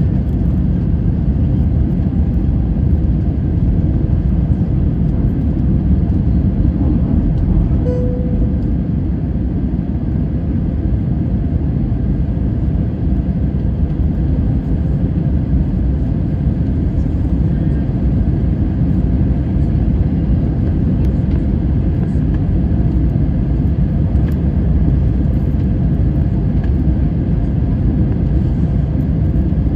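Steady, loud low rumble of a jet airliner during landing, even and unbroken throughout.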